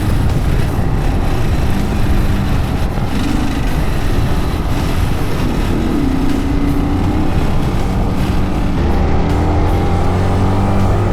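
Yamaha WR155R single-cylinder dirt bike engine running under way, its pitch shifting with throttle and gear changes.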